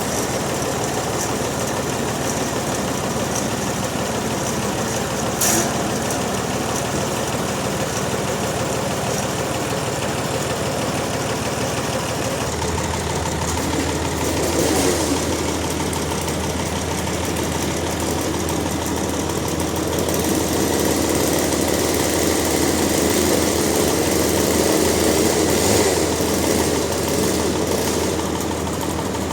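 Sawmill machinery running steadily. About twelve seconds in, a deeper hum joins, and the noise grows a little louder in the later part, with a single short knock early on.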